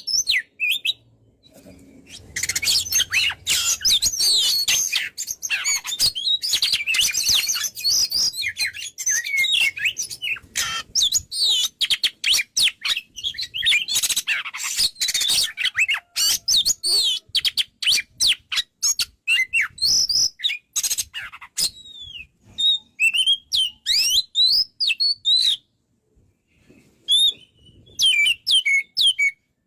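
Oriental magpie-robin (kacer) singing vigorously: a fast, varied stream of whistled notes, slurs and chattering, with a brief pause about two seconds in and another a few seconds before the end.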